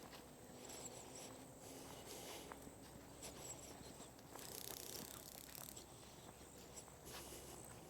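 Faint footsteps of people walking on a dirt trail, with a brief higher rustle about halfway through.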